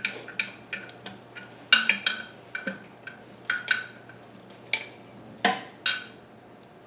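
Steel hand tools and sockets being handled, metal clinking against metal in irregular, sharp clinks that stop near the end.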